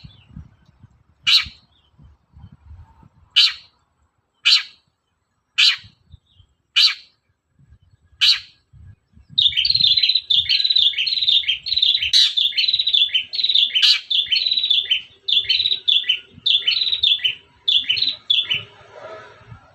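Long-tailed shrike singing: a string of single sharp, high calls about a second apart, then from about nine seconds a fast, continuous run of chattering notes.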